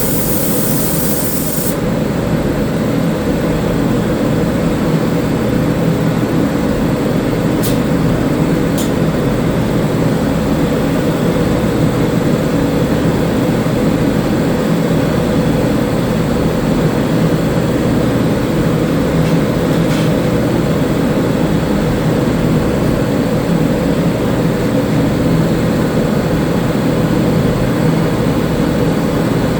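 A steady low mechanical drone of paint-shop air equipment. A spray gun's high air hiss cuts off about two seconds in as sealer primer is sprayed, and a few faint clicks follow.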